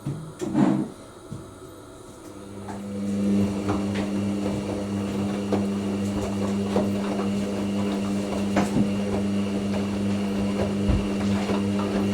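Hoover NeXtra front-loading washing machine: a thump about half a second in, then a drain pump starts about two and a half seconds in and runs with a steady hum, with light knocks from the drum over it.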